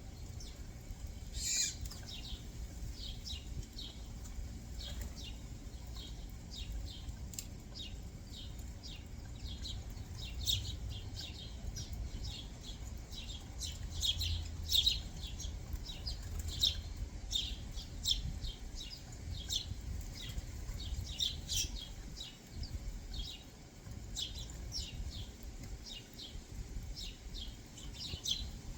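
Backyard songbirds chirping with many short, rapid chirps throughout, over a steady low rumble.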